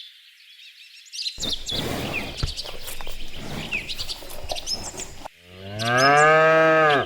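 Small birds chirping over a background hiss. Near the end comes a single long, loud cow moo that rises and then falls in pitch.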